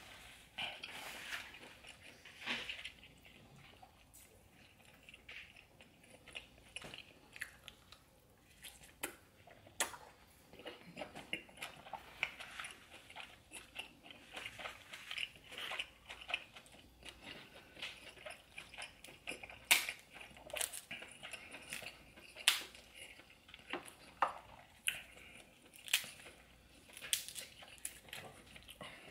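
A person chewing and biting seafood-boil food close to the microphone: irregular wet smacking and sharp mouth clicks, a few louder ones in the second half.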